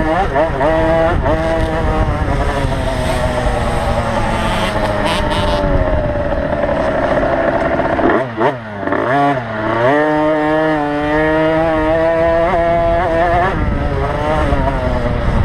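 Small 50cc two-stroke motocross bike engine revving hard, its pitch rising and falling with the throttle through gear changes. About eight seconds in it drops off briefly and then climbs back. It then holds a high, fairly steady note for a few seconds before rising and falling again.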